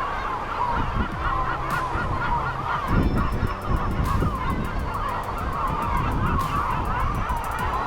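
Many birds calling at once in a continuous, wavering chorus of honking calls, over a low steady hum.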